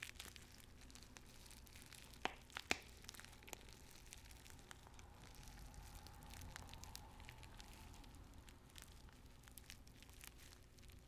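Paper tea bags being handled and crinkled: faint, soft crinkling and rustling, with two sharper crackles about two and a half seconds in.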